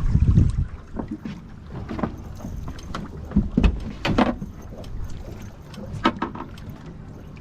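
Wind buffeting the microphone on an open fishing boat, with a gust at the start. A few sharp knocks and clicks of gear being handled are scattered through.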